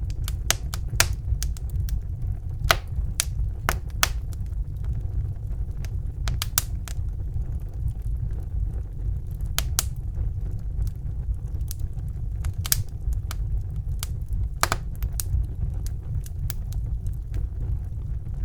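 Wood fire burning in a fireplace: a steady low rumble of flames under irregular, sharp crackles and pops, a few of them louder than the rest.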